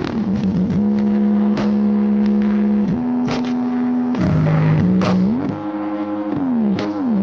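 Electronic music played loud through a large subwoofer sound system: a buzzy synth lead holds long notes and slides between them, with a few sharp clicks.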